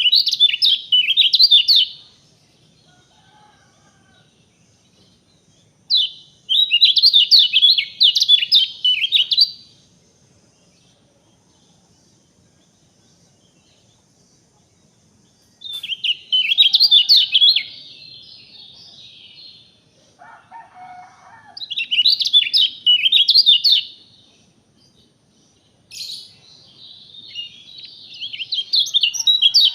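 A songbird singing in repeated bursts of rapid, high-pitched warbling, each two to three seconds long, with pauses between them. A short, lower call comes once about twenty seconds in.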